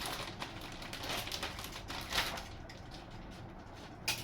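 Cardboard packaging being handled and pulled out of a box: rustling and scraping, with a sharp click about two seconds in and another near the end.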